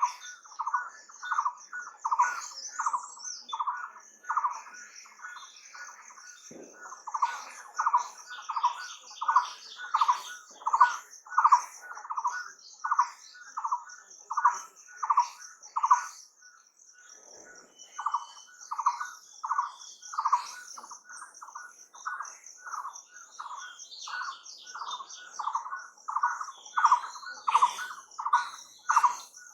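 A bird calling a short note over and over, about one and a half times a second, with brief pauses about five seconds in and again near the middle. A steady high-pitched trill runs behind it.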